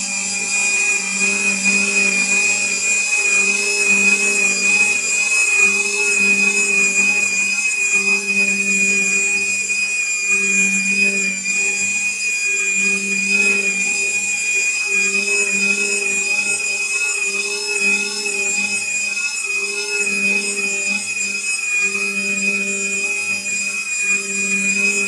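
RIDGID 535 pipe threading machine running continuously. It makes a steady high whine over a low hum that swells and fades at a slow, even rhythm, roughly once a second.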